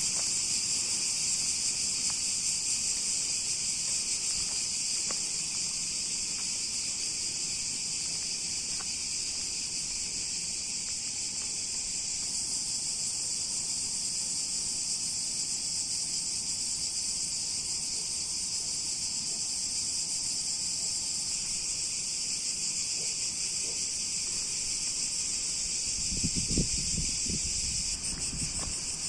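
Dense summer insect chorus, a steady high-pitched shrill drone with no breaks. A brief low rumble comes near the end.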